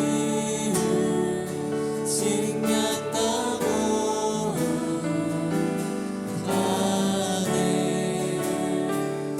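Gospel worship music: voices singing together, with steady instrumental accompaniment.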